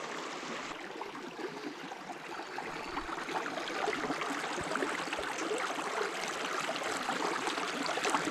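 Small stream running over rocks: a steady rush of water with many small splashing trickles, a little louder about four seconds in.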